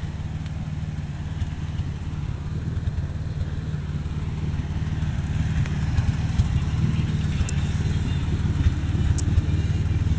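Ford Ranger's 4.0-litre V6 engine idling steadily, growing gradually louder.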